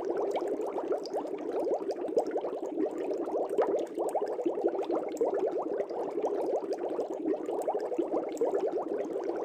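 Fish tank air bubbles rising and popping at the surface: a dense, unbroken bubbling made of many quick little pops.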